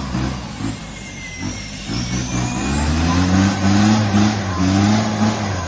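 Radio-controlled toy truck running, its electric drive motor whining high, rising and falling in pitch as it speeds up and slows. Under the whine is a low, steady, engine-like drone that shifts in pitch.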